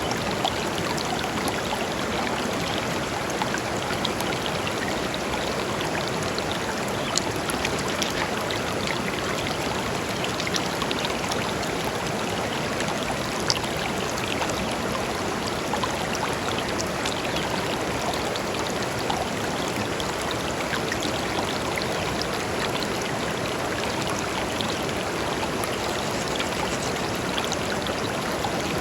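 A clear river flowing over stones, a steady rush of water with small splashes and drips scattered through it.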